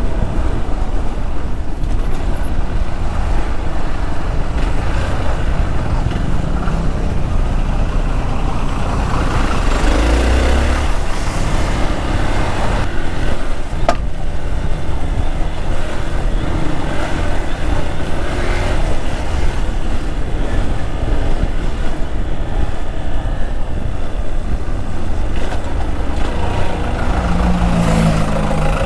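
Motorcycle riding through slow traffic beside army trucks: the Hero XPulse 200's single-cylinder engine runs under a steady heavy rumble of wind on the microphone, with truck engines alongside. A short pitched sound comes near the end.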